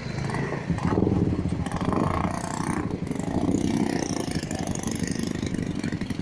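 An engine running steadily with a fast even pulse, rising a little about a second in.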